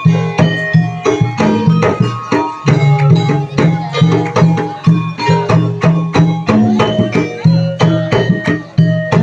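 Javanese jaranan (ebeg) gamelan music: hand drums beating a fast, steady rhythm under struck, ringing tuned percussion notes.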